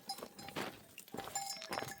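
Bells on grazing livestock clanking irregularly as the animals move, several bells at different pitches ringing over one another, with short knocks between them.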